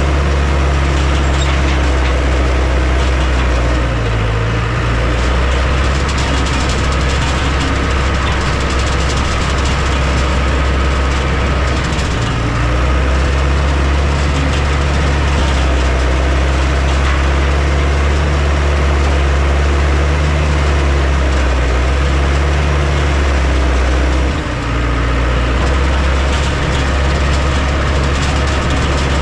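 Heavy diesel engine of earthmoving machinery running steadily, its low note shifting briefly about four seconds in, again near the middle and once more near the end.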